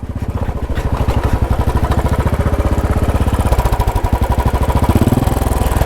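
Royal Enfield Bullet single-cylinder engine running with an even, rapid thumping beat. The silencer pipe has come off after the bike scraped bottom in a river crossing, leaving the exhaust open.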